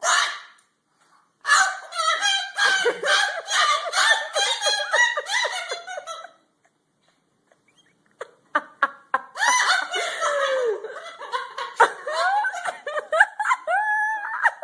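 A pet parrot laughing in fast cackling bursts. After a short pause it chatters with clicks and short sliding whistles.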